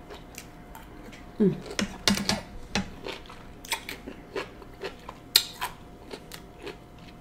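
Close-miked chewing of crisp cucumber slices: an irregular run of wet crunches and mouth clicks.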